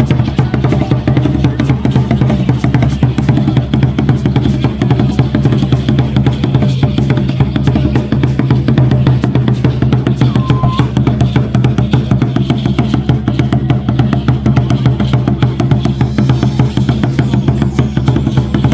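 Music driven by fast, dense drumming, the strokes coming in a quick unbroken stream over a steady low bass.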